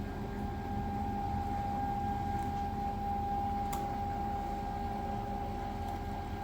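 Stepper motors driving the gantry of a 4x8 CNC router along its Y axis at 200 inches per minute: a steady high whine over a low hum. There is a single click about midway.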